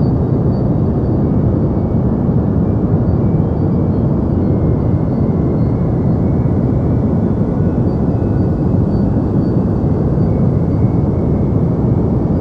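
Deep white noise for sleep: a steady, unbroken rushing noise weighted toward the low end, more rumble than hiss, with no change in level.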